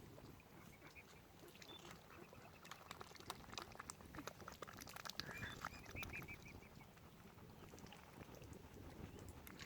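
Faint waterfowl calls: runs of short, high, repeated notes, once about two seconds in and again around five to six and a half seconds in, over scattered soft clicks.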